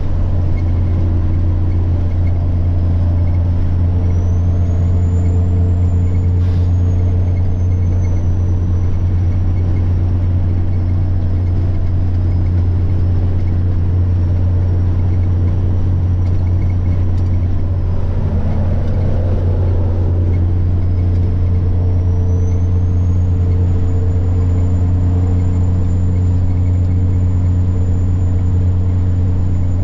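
Semi-truck diesel engine running steadily under way, with a high turbocharger whine that rises and falls with the throttle. The whine drops away for a few seconds with a brief hiss, then climbs again and holds.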